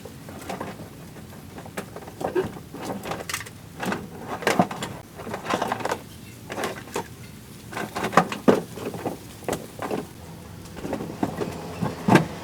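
Irregular knocks and short scrapes, a dozen or more at uneven intervals, over a steady low background noise.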